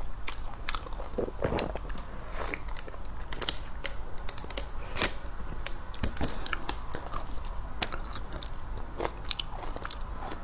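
A person chewing food close to a clip-on microphone, with many quick, irregular wet clicks of the mouth and tongue.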